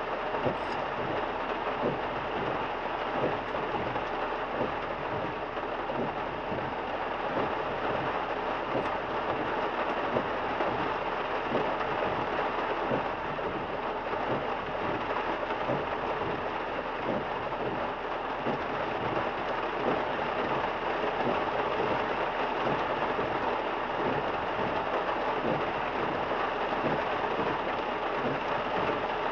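Heavy rain beating on a moving car's windshield and roof: a steady, dense patter of drops.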